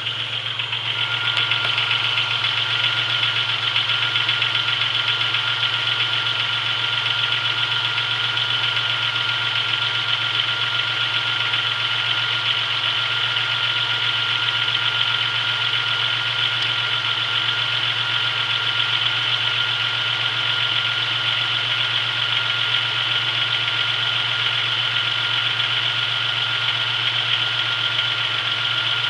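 A 1996 Chevrolet Beretta's GM 3100 V6 idling steadily as it warms up after a cold start, with a light engine knock. A steady high-pitched whine runs alongside.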